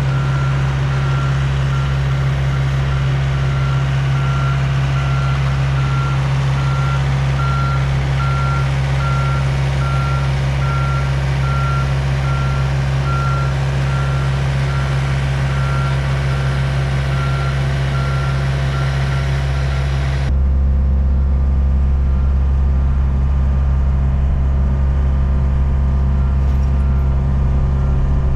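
Diesel engine running steadily while a back-up alarm beeps at an even pace, about one beep every three-quarters of a second. About two-thirds of the way through, the beeping stops and the engine sound abruptly turns deeper and louder.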